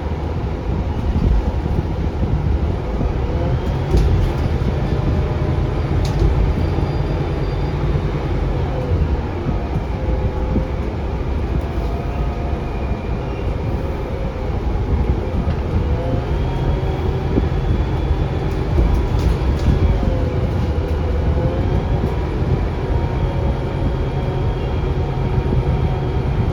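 Scania K360UA articulated bus under way, its Scania DC9 five-cylinder diesel and ZF Ecolife automatic gearbox rumbling steadily. Whining tones rise and fall several times as the bus speeds up and slows down.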